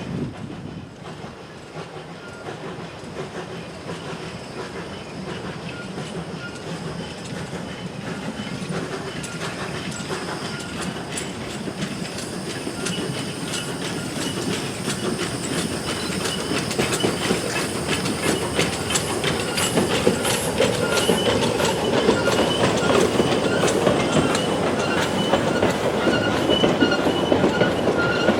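A train drawing nearer and growing steadily louder. Its wheels clatter over the rails and a thin wheel squeal comes in over the second half.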